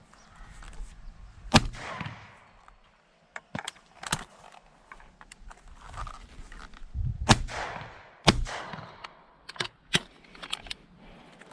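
Gunshots from a crow hunt: a loud shot about one and a half seconds in, then two more shots about a second apart in the middle, each with a short echo. Smaller sharp clicks and knocks fall between them.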